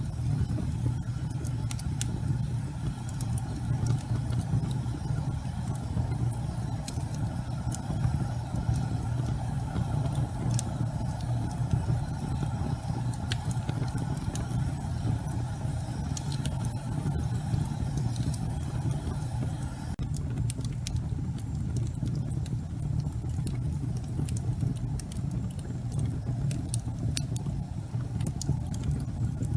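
Wood logs burning in a fireplace: a steady low rumble of the fire with scattered sharp crackles and pops.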